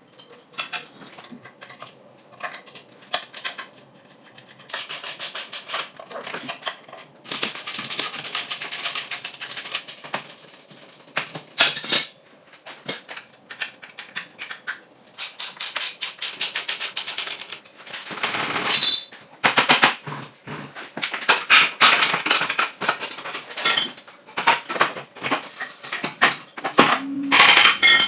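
Hand tools working on metal parts: bursts of rapid scraping and clicking, each a second or two long with short pauses between, and an occasional sharper knock.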